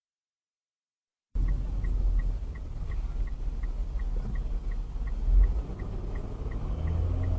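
Road and engine rumble inside a moving car, with an even ticking about three times a second and one louder thump about five seconds in. Silent for the first second or so.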